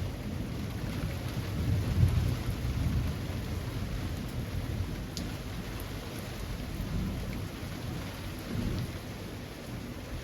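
Steady rain falling on leafy trees, with a low rumble underneath that swells and fades, strongest about two seconds in and again near the end.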